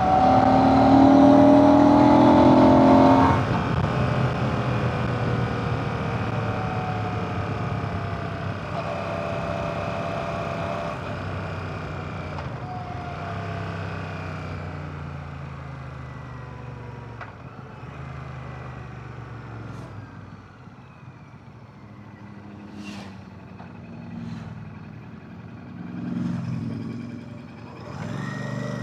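Royal Enfield Classic 650's air/oil-cooled 648cc parallel-twin engine pulling hard with a rising note for about three seconds, then dropping off sharply as the throttle closes. The engine note then falls away gradually as the motorcycle slows, with a brief swell in engine sound near the end.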